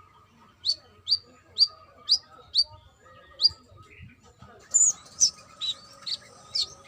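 Brown-throated sunbird giving loud, sharp chirps that fall quickly in pitch. They come about two a second, then in a quicker, busier run about halfway through. A faint steady hum sits underneath.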